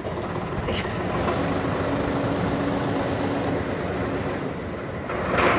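Small 50 hp SOLIS tractor engine running steadily, just started up to drive a slurry whisk. A short, louder burst of noise comes about five seconds in.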